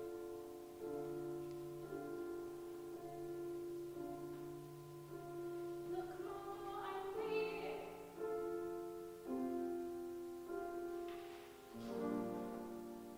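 Piano accompaniment playing slow held chords, a new chord struck every second or two, with a singing voice coming in briefly about halfway through.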